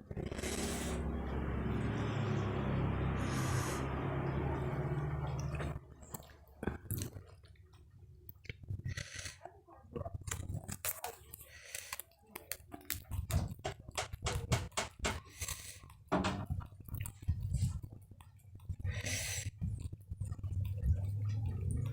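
Close-up crunching and chewing of crispy fried snacks, a long run of irregular sharp crunches. For about the first six seconds a steady rushing noise with a low hum covers it, then stops suddenly.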